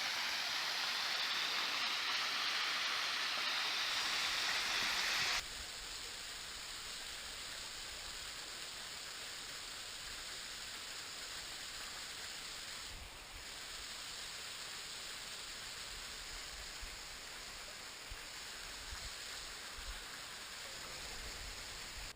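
Small waterfall splashing, a steady rushing hiss of falling water. It is louder for about the first five seconds, then drops suddenly to a quieter, steady level.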